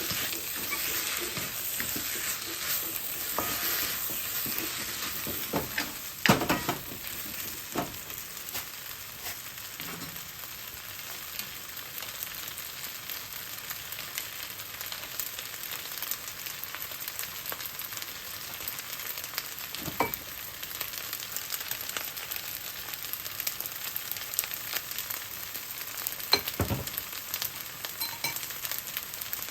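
Fried rice sizzling steadily in a hot pan as it is stir-fried. A few sharp knocks are heard, the loudest about six seconds in and again near the end.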